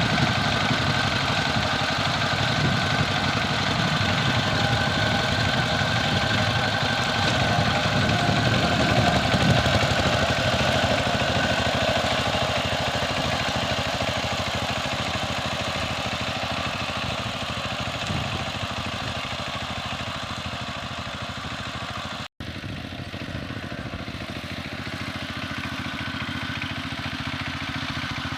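Power tiller engine running steadily, slowly growing quieter through the second half, with a momentary break in the sound about two-thirds of the way in.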